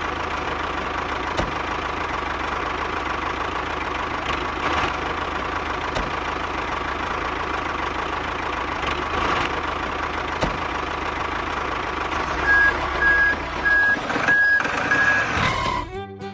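Truck engine idling steadily; about twelve seconds in, a reversing alarm sounds about five short beeps at one pitch.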